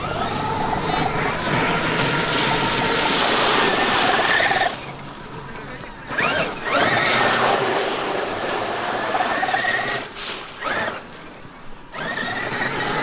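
Traxxas X-Maxx electric RC monster truck running, its brushless motor and gears whining at a steady pitch under throttle. The whine drops away twice as the throttle is let off, and each time it rises again in a quick upward sweep as the truck speeds up.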